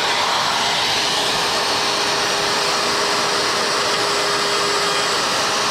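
Handheld electric wood router running steadily at full speed, a loud even motor-and-cutter noise with a faint steady whine.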